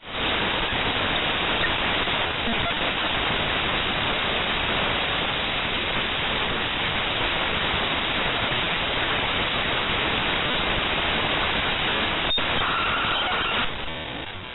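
Executable program file (mspaint.exe) data played back as raw audio at quarter speed: a dense, even static hiss. About twelve seconds in there is a single sharp click, followed by a brief steady tone, and near the end the hiss drops in level and grows rougher.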